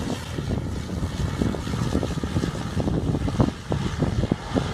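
Wind buffeting the microphone over the low, uneven rumble of an aircraft landing.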